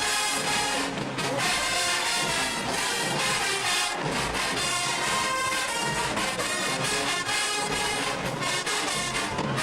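Marching band playing a brass-heavy number, trumpets and trombones to the fore.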